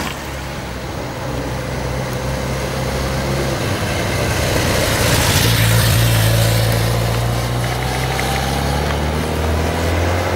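Motorcycle engines running at low speed with a steady low hum, swelling louder about five to seven seconds in as one comes closer.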